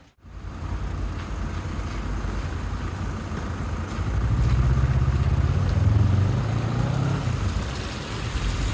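A motor vehicle driving past close by on a rain-soaked street. Its engine hum builds to its loudest about halfway through and then eases off, over a steady hiss of rain.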